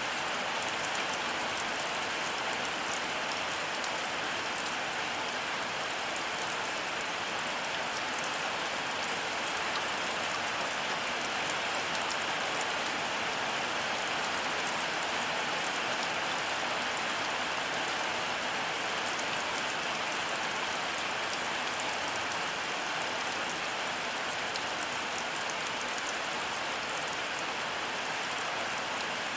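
Heavy rain falling steadily: an even hiss thick with small drop impacts, with no thunder.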